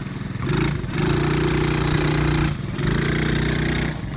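Four-wheeler (ATV) engine pulling under throttle in three steady stretches, a short one, then two long ones, with brief drops between them as the throttle comes off.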